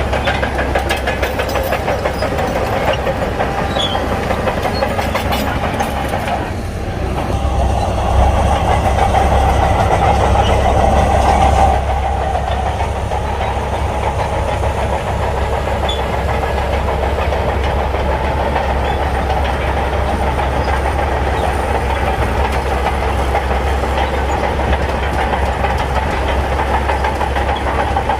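Shantui crawler bulldozer working in sand: its diesel engine runs steadily under load while the steel tracks clatter. It grows louder for a few seconds about a third of the way in, then settles back.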